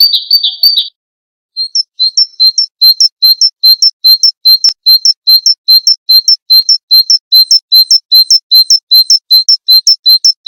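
Small songbird calls: a fast high trill stops abruptly about a second in, and after a short silence a bird repeats one short, high chirp about four times a second in a very even series.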